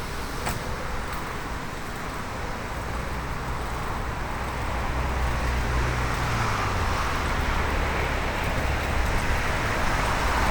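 Road noise on a bicycle ride: a steady rush of wind and tyres, with a motor vehicle's low hum joining about three seconds in and the noise building louder toward the end.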